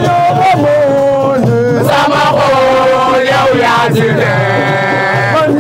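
Voices chanting a song, with long held notes that step up and down in pitch.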